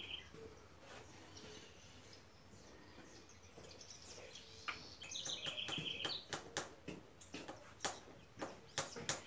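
A small bird chirping in quick repeated notes, and in the second half a run of short, sharp scraping knocks, about three a second, as a farrier works on a horse's hoof.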